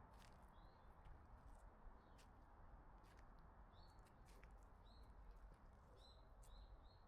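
Faint bird chirps: short high notes, a few at first and then several in quick succession near the end, with scattered light clicks over a low background hush.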